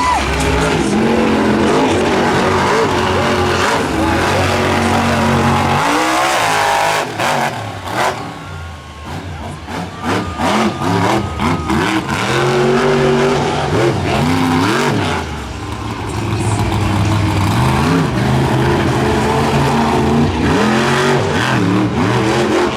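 Monster truck engine revving hard, its pitch climbing and dropping over and over. There is a short lull about eight seconds in, with a few knocks, before the revving picks up again.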